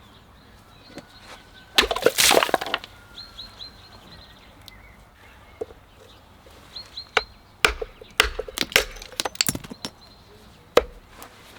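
Wood being chopped and split: a quick flurry of sharp cracks about two seconds in, then a run of single sharp knocks and snaps in the second half.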